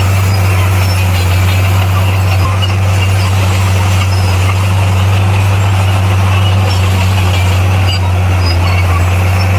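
Heavy earthmoving machine's diesel engine running steadily, a constant low drone with no change in speed.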